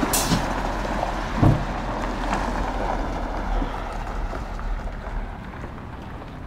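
A truck running with a steady, noisy rumble that fades toward the end, with a thump about one and a half seconds in.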